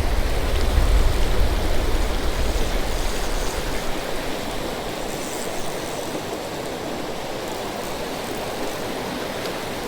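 Fast creek current flowing, a steady rushing hiss of water, with a low rumble under it for the first three or four seconds that then drops away.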